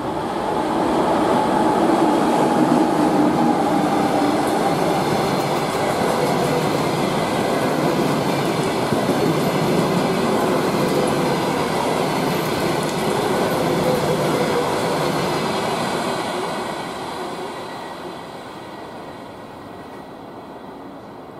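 A passenger train hauled by an EP2K DC electric locomotive passing close by at speed, its wheels running on the rails in a loud, steady rumble. The sound fades away over the last few seconds as the train moves off.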